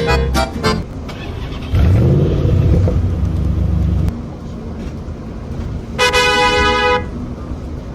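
Accordion music ends within the first second. A vehicle engine follows, accelerating with a low rising rumble that cuts off suddenly about four seconds in. Near the end a vehicle horn sounds once, a steady toot of about a second.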